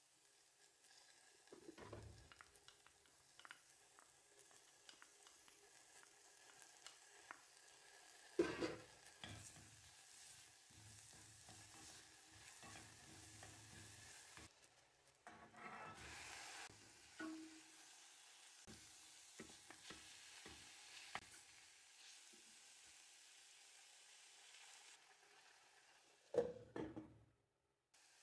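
Diced vegetables with garlic and coriander sizzling faintly in a stainless steel pot while being stirred with a wooden spoon. Two sharper knocks stand out, one about a third of the way in and one near the end.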